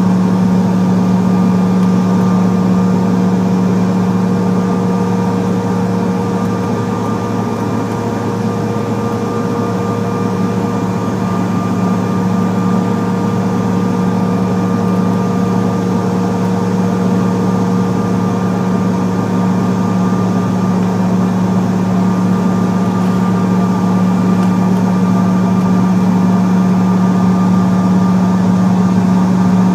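Cabin noise of a CRJ700 regional jet: the steady drone of its General Electric CF34 turbofans with a few constant whining tones on top, neither rising nor falling.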